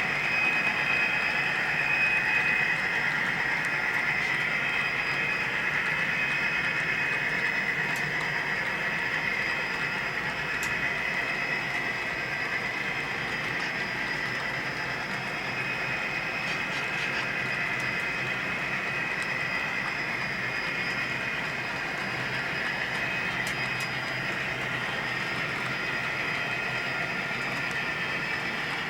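HO scale model train running on the layout, a steady mechanical drone with a few faint clicks, easing slightly quieter over the first dozen seconds and then holding steady.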